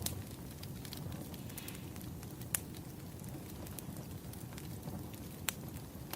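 Firewood fire burning: a steady low rush with scattered crackles and a few sharp pops, the loudest about two and a half seconds in.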